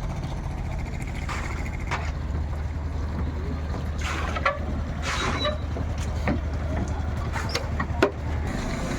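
Longtail boat engine running with a steady low drone. Scattered knocks sound over it, the loudest about eight seconds in, and brief voices come through near the middle.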